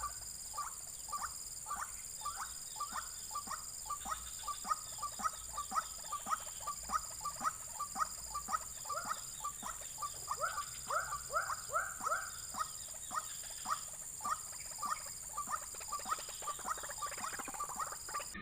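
Ruak-ruak (white-breasted waterhen) calls: short, sharp notes repeated rapidly, about three a second, growing louder and doubled for a couple of seconds past the middle. A steady high insect buzz runs underneath.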